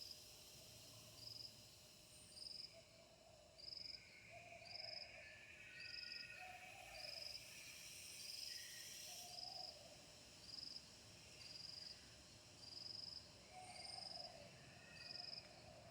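Faint chorus of insects chirping in an even rhythm, about one and a half short high chirps a second. Lower calls from another animal come every second or so, with a few middle-pitched calls in the middle.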